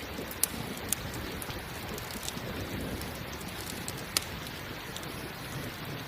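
Steady rain falling, mixed with a crackling campfire: a few sharp pops stand out over the hiss of the rain, the loudest about four seconds in.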